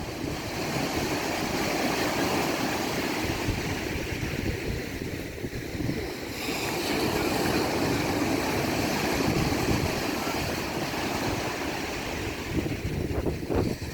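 Sea surf: waves breaking and washing up the shore in a continuous rush that swells about halfway through, with wind buffeting the microphone.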